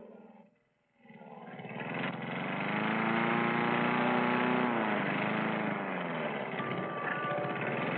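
Petrol lawnmower engine swelling in from about a second in and running steadily, its pitch sagging and picking up again a couple of times.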